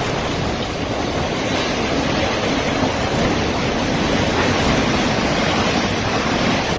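Storm wind blowing hard and steadily, buffeting the microphone in a continuous rush of noise.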